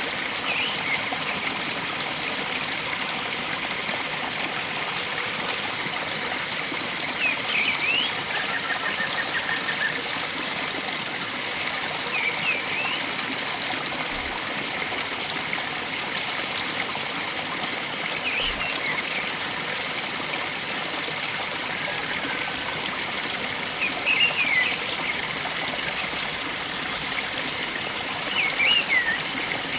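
Steady rush of flowing water with short bird chirps every few seconds and one brief trill.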